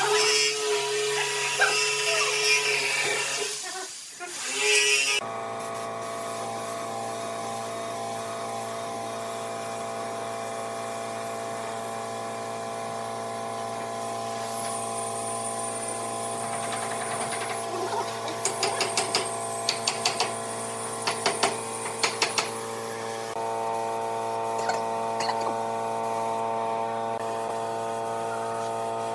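Electric power tool running: for the first five seconds it works with loud rough noise, then it settles to a steady hum. A thin high whine and a run of sharp clicks come over the hum in the middle.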